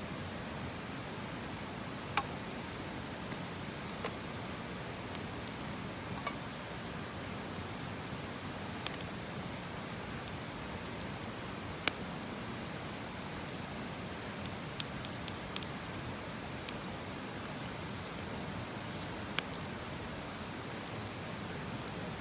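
Wood campfire burning: a steady hiss with scattered sharp pops and crackles, about a dozen spread irregularly through it.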